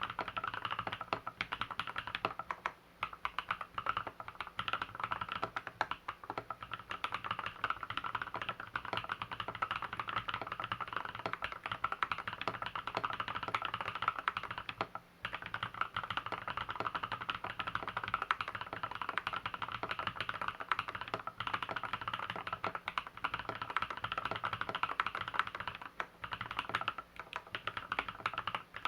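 Typing on an LZ B7 custom mechanical keyboard: a fast, continuous run of key clicks and clacks, pausing briefly twice.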